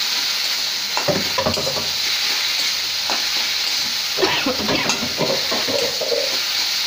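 Chopped taro leaves frying in oil with very little water in a kadai: a steady sizzle, with a spatula stirring and scraping the pan at irregular moments, most busily about a second in and again between four and five seconds.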